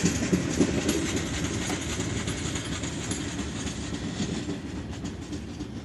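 Union Pacific rock train's freight cars rolling past, wheels clicking over the rail joints, fading steadily as the train moves away.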